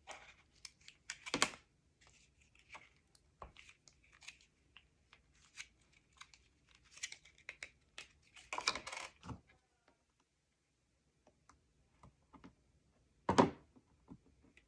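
Paper-crafting materials being handled on a desk: scattered light ticks and taps with short bursts of paper and tape crinkling, the loudest about a second in, around nine seconds in and near the end.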